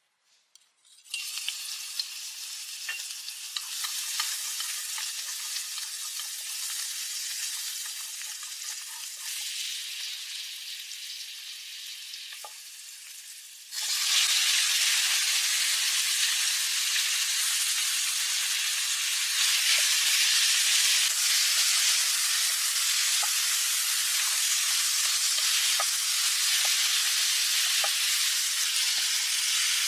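Food sizzling in a hot pan: a steady frying hiss with small pops and crackles. It starts about a second in and suddenly gets much louder about halfway through.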